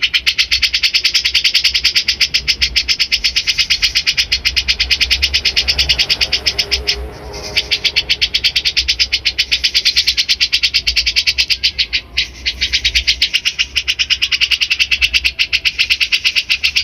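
Bulbul song: a fast, even run of high repeated notes, several a second. It breaks off briefly about seven seconds in and again about twelve seconds in.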